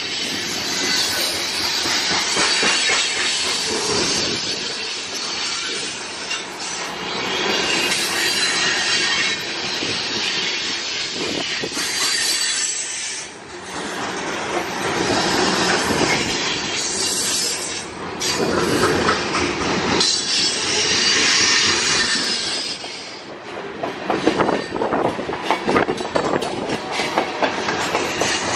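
Covered hopper cars of a BNSF unit grain train rolling past close by, their steel wheels squealing on the rails. A quick run of sharp wheel clacks comes near the end.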